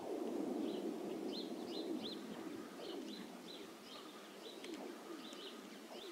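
Frozen lake ice singing: overlapping swooping, falling low tones, strongest at the start and fading over the following seconds, which the man puts down to the wind stressing the ice. Small birds chirp repeatedly and high-pitched above it.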